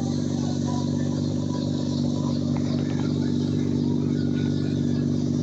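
Car engine idling steadily, its exhaust giving an even, unchanging note.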